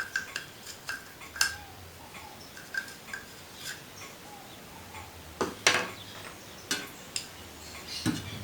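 Irregular light clicks and knocks of small plastic and metal washing-machine agitator drive parts (clutch ring, cup, spring) being handled and fitted together, some with a short metallic ring.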